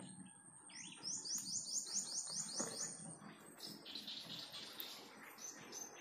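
Small wild bird calling a quick run of about ten short, high chirps, about five a second, followed a second or so later by another high chattering phrase.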